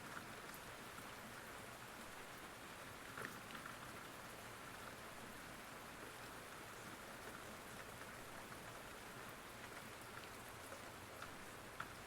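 Steady rain ambience: a soft, even hiss of rainfall with scattered drops ticking on a surface, faint throughout.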